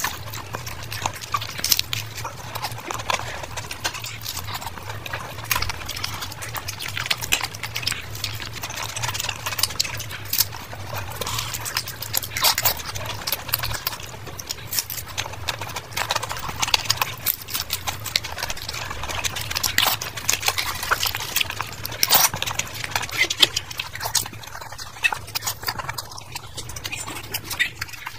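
Close-miked ASMR eating: a person biting and chewing a samosa and other chaat, a dense, irregular run of sharp mouth clicks, smacks and crunches. A low steady hum sits underneath.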